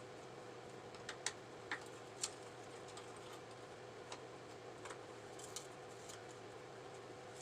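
Faint, scattered metallic clicks and taps from hand tools working on a motorcycle's handlebar clamp bolts, several in the first two and a half seconds and a few more later, over a steady low hum.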